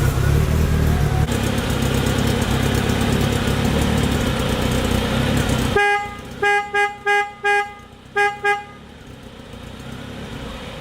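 A car's steady running noise cuts off about halfway through, and then a car horn gives about six short toots, four quick ones and then two more.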